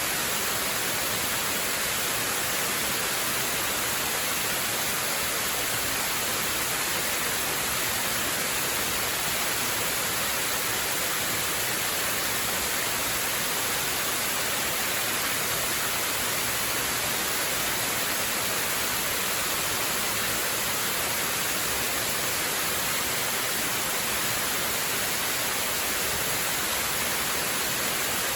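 Waterfall: the steady, unvarying rush of falling water, a dense hiss weighted toward the higher pitches.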